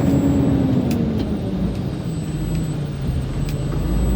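Heavily loaded truck's engine running, heard from inside the cab; about a second in its pitch falls and settles lower as the revs drop. A few faint ticks sound over it.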